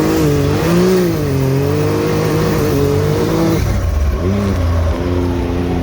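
Side-by-side UTV engine revving under load, its pitch rising and falling for a few seconds, then dropping off with one short rev before settling to a steady run.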